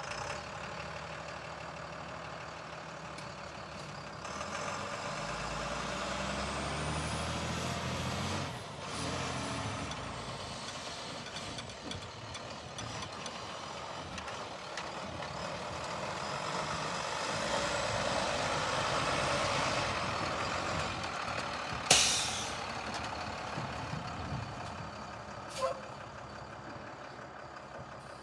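International DT466 diesel engine of a 2006 International 4400 truck running just after starting, revved up from about 4 to 8 seconds in with a rising whine, then settling back. About 22 seconds in comes one loud, short hiss of air from the truck's air brake system.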